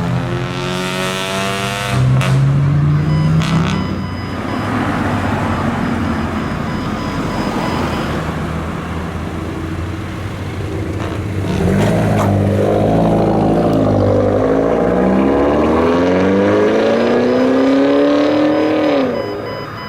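Car engines and exhausts running loud as cars drive past. A short rev rises about two seconds in, and from about twelve seconds in one car accelerates, its engine note climbing steadily before dropping away near the end.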